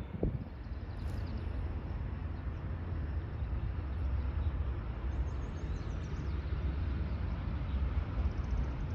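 Amtrak Pacific Surfliner passenger train approaching in the distance: a low rumble, growing slightly louder, mixed with wind on the microphone.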